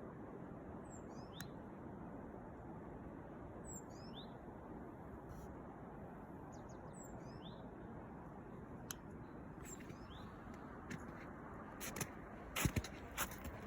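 A songbird giving a short high call about every three seconds, four times, over a steady background hiss; a few sharp cracks near the end.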